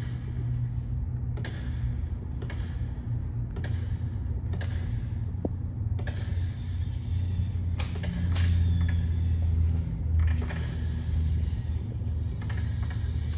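Fireworks cake demo video (Saturday Night Special, 36-shot 500 g cake) playing through display-TV speakers: shots go off roughly once a second, and from about halfway through several falling whistles, over a steady low rumble.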